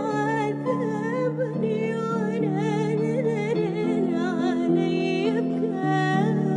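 A singer holds a long ornamented melisma with vibrato over sustained keyboard chords in a slow Arabic ballad.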